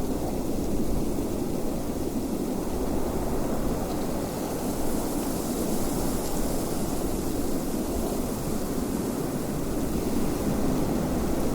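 Wind blowing steadily: an even, deep rush of noise with a faint hiss higher up, no gusts or breaks.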